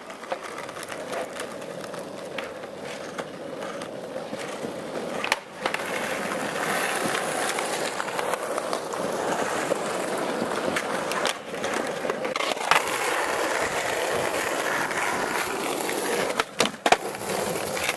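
Skateboard wheels rolling, with a few sharp clacks of the board; the rolling drops out briefly three times, and the loudest clack comes near the end.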